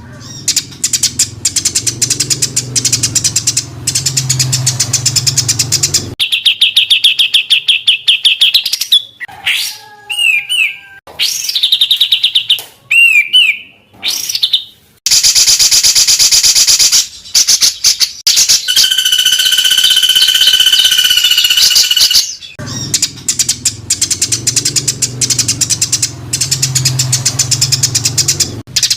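Edited songbird training recording of hard, rapid-fire song: dense fast chattering notes, then trills and varied whistled phrases, a long held whistle, and dense chattering again, with sudden cuts between segments.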